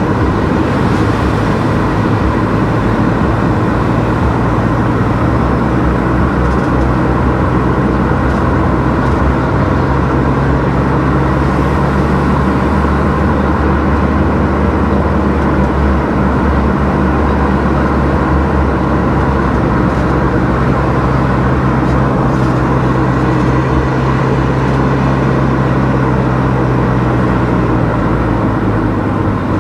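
A car driving steadily along a road: continuous engine hum and road noise. A low engine drone grows stronger about twelve seconds in and eases off near the end.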